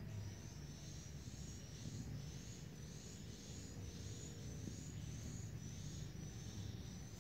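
Faint, high, short chirps repeated evenly about twice a second, from a chirping animal in the background, over a low steady rumble.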